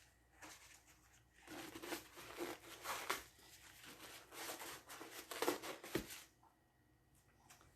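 Crinkly material being handled and crumpled: an irregular run of crackles and rustles that lasts about five seconds, starting about a second and a half in and stopping abruptly.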